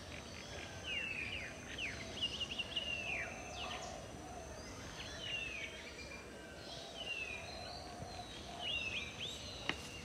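Birds chirping in a garden: short, falling whistled calls repeated every second or so, over a faint steady high whine. A single sharp click near the end.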